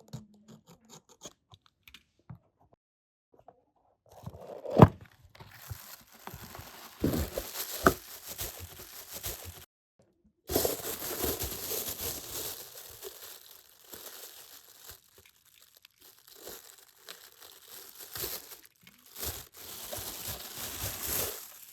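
Plastic toy packaging being torn open and crinkled in long rustling stretches, with a sharp snap about five seconds in.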